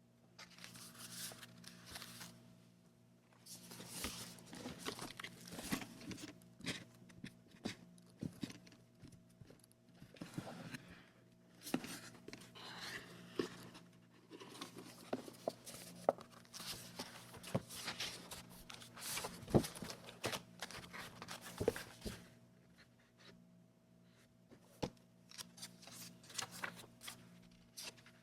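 Paper and packaging being handled and unwrapped: irregular rustling, crinkling and tearing with sharp little clicks, over a faint steady hum.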